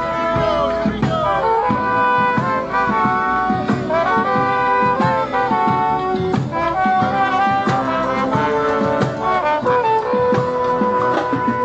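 Live college brass band playing an up-tempo jazz-style number: trumpets and trombones over drums, with held notes and several sliding falls in pitch.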